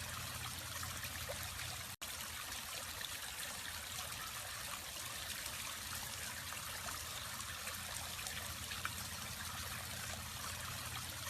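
Water from a decorative waterfall trickling and splashing steadily, over a low steady hum. The sound drops out for an instant about two seconds in.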